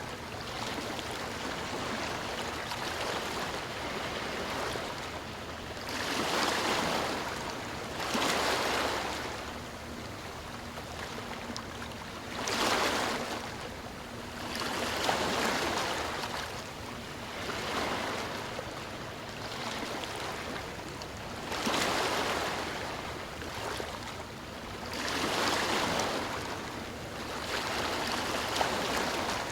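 Sea waves breaking and washing onto a shore, one after another, each rising and falling over a few seconds, with a steady hiss of surf between them.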